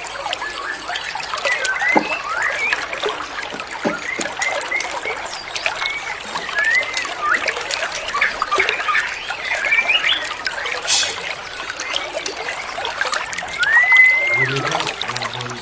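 Songbirds calling in short whistled notes, many of them quick rising slurs, scattered throughout over a steady trickle of running water. Music begins faintly near the end.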